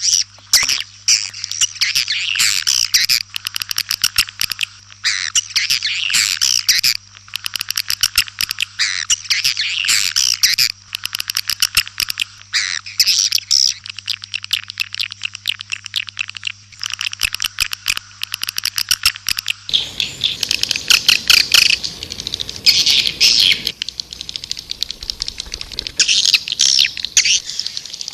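White-nest swiftlet calls: rapid, high-pitched twittering chirps in dense bursts, one burst after another. This is a swiftlet lure call, played to draw the birds into a nesting house. A steady low hum sits under the calls until about two-thirds of the way through, when the background changes.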